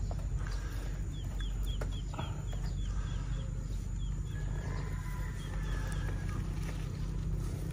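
A bird chirping in a quick run of short, high, falling notes, about four a second, starting about a second in, with a few more a little later. Under it is a steady low rumble, with a few light knocks and rustles as the wire-mesh snake trap is handled.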